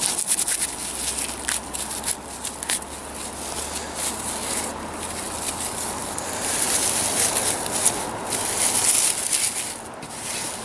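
Dry grass crackling and rustling as it is rubbed and broken apart between the hands, with many small sharp crackles throughout.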